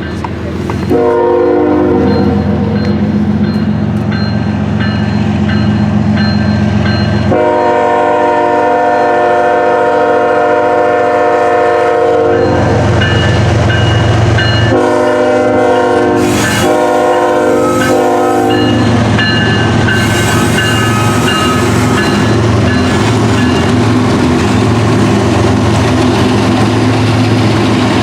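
Diesel freight locomotive horn sounding a chord in several blasts: two long blasts, then three short ones in quick succession about two-thirds of the way through. Under the horn, and on alone after it stops, is the steady low rumble of the locomotive's diesel engines pulling the train out.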